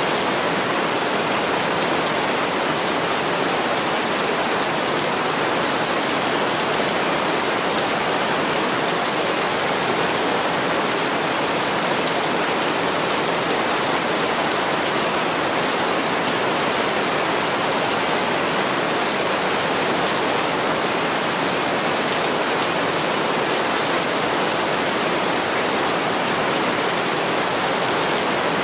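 Heavy rain pouring steadily onto a window pane, an even, unbroken hiss.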